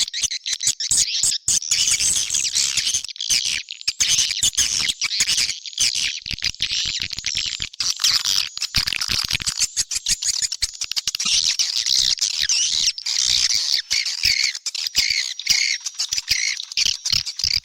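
Swiftlet call recording: a dense, unbroken chatter of rapid twittering and clicking trills from many swiftlets at once, the lure sound played to draw swiftlets into a swiftlet house.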